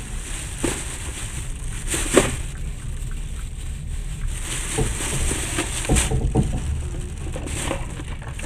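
Running noise of a moving train: a steady low rumble with a hiss over it, broken by irregular knocks and rattles, the loudest about two seconds in and a cluster around six seconds.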